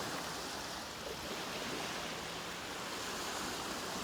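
Small waves washing onto a beach, a steady rushing surf.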